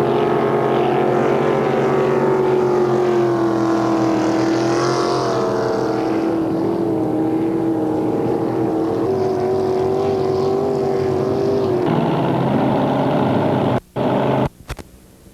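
Racing powerboat engine running at speed, its pitch rising and falling as the revs change. Near the end the sound cuts out abruptly twice.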